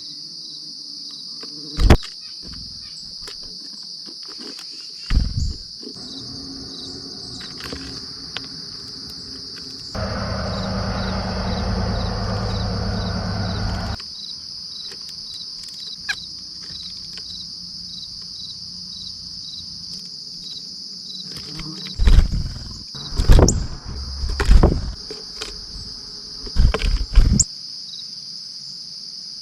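Steady high-pitched chirring of insects, with a faint even pulse, throughout. Sharp low thumps break in at about 2 and 5 seconds and again in a cluster in the last third; these are the loudest sounds. A louder low rushing noise lasts about four seconds in the middle.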